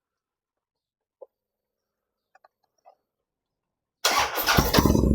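A few faint clicks, then about four seconds in a Harley-Davidson V-twin motorcycle engine is started and catches, running loud with a deep low rumble.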